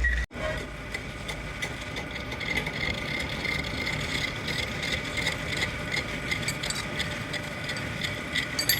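Machinery running steadily, with a faint steady whine and many small clicks and rattles throughout.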